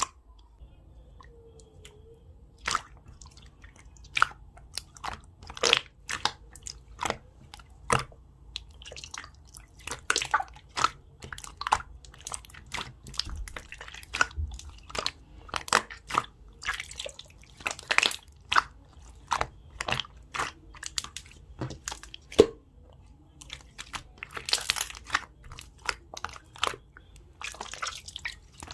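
Jelly slime squeezed and poked by hand, making a dense, irregular run of sharp, sticky pops and clicks that starts a few seconds in.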